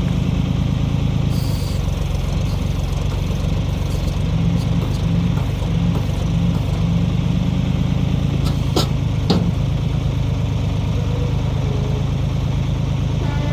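1973 Ford 4500 industrial backhoe's diesel engine running steadily while it works the hydraulics to dig out a stump. Its note shifts as the load comes and goes, and there are two sharp metal clanks about half a second apart, about two-thirds of the way through.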